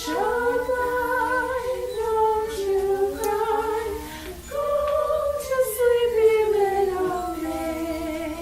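Unaccompanied voices singing a slow, flowing melody with no words made out. There is a short break about four seconds in, then a long phrase that falls gradually in pitch.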